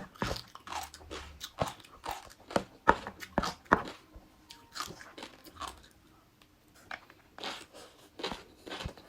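Close-miked chewing of crunchy food: a quick run of crisp crunches and clicks, a pause of a few seconds about halfway through, then the crunching again.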